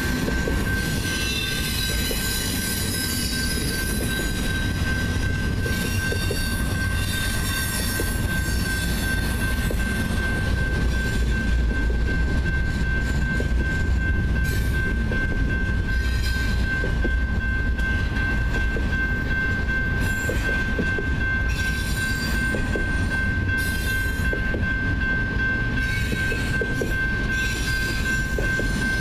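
Double-stack container train rolling past at speed: a steady rumble of wheels on rail with clickety-clack, and a high wheel squeal that comes and goes, strongest in the first eight seconds. A steady high tone runs under it throughout.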